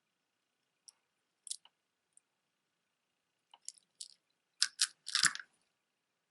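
Plastic beads of a stretch bracelet clicking and rattling together as it is handled. There are a few single clicks in the first two seconds, then a quick run of louder clatters about three and a half to five and a half seconds in.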